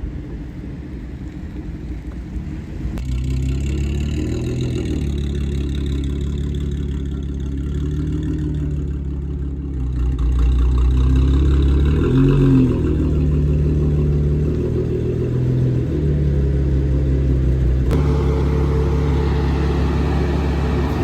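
Car engines idling and revving. The sound gets louder about three seconds in and again about ten seconds in.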